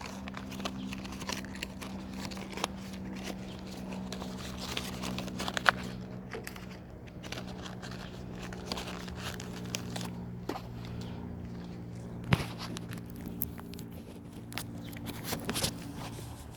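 Car engine idling steadily, with scattered sharp clicks and knocks from hands and tools working nearby.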